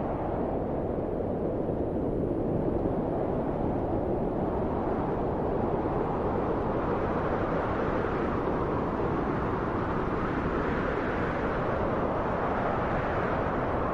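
Steady wind blowing, a deep, even rush that grows somewhat stronger and brighter for a few seconds past the middle.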